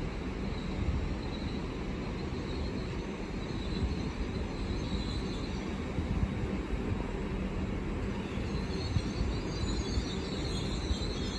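Train running through the station with a steady low rumble; a high-pitched hiss grows louder near the end.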